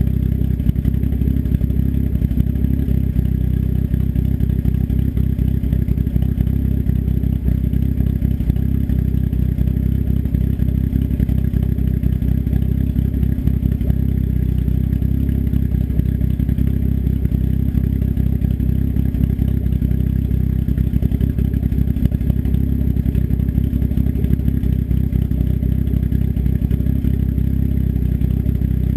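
Engine with an S257 turbo and custom cams idling steadily through an open 3-inch turn-down dump straight off the downpipe, loud with a fast, even exhaust pulse.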